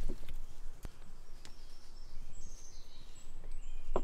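Outdoor background noise: a low rumble with faint birds chirping high up, and a few sharp clicks scattered through it.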